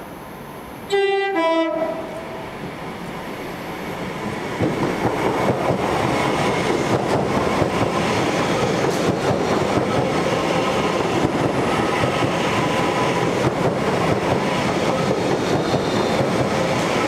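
Electric multiple-unit train sounding a two-tone horn about a second in, a higher note then a lower one. It then runs through the station at speed, its rushing wheel and running noise building about four seconds in and holding steady.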